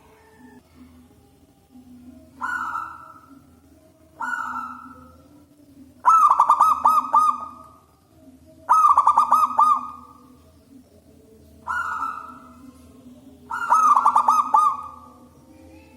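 Zebra dove (perkutut) cooing: six calls, three short single coos and three longer phrases of rapid repeated notes, over a faint steady low hum.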